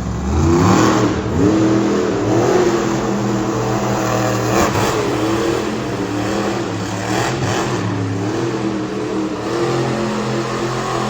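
Monster truck engine revving, its pitch rising and falling in repeated swells over a steady running note.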